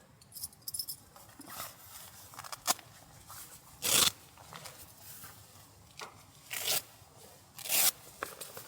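Short bursts of rustling and scraping from gear being handled, about three main bursts with a few small clicks between, the loudest about four seconds in.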